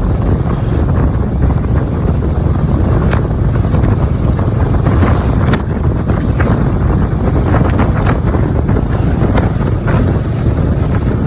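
Heavy wind buffeting the microphone: a loud, steady low rumble with no break.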